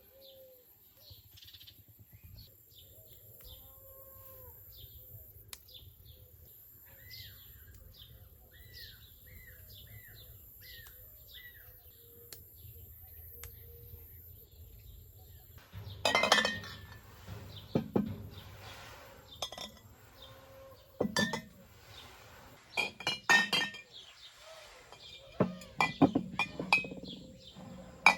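Birds chirping repeatedly, then, about halfway through, a run of loud, irregular clinks and knocks of glassware being handled.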